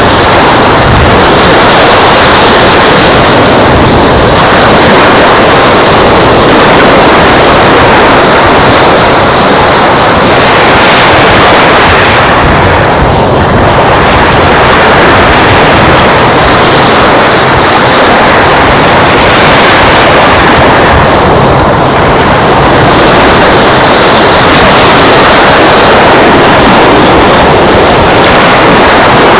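Loud, steady rush of surf and wind on the microphone along an open beach.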